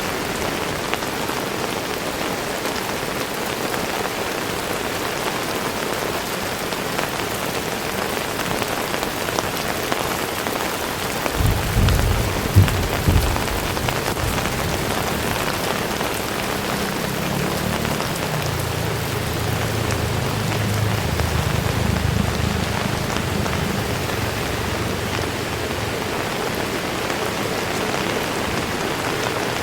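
Heavy rain pouring steadily onto surfaces. About eleven seconds in, a low thunder rumble begins with two sharp cracks, then rolls on for about ten seconds before fading back under the rain.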